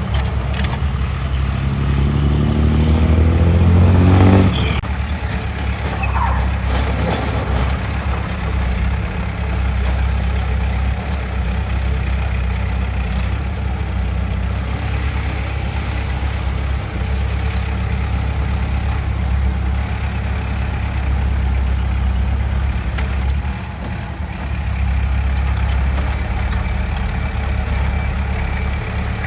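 Heavy diesel engine of earthmoving machinery revving up, rising in pitch for about four seconds, then dropping back suddenly and running steadily under load.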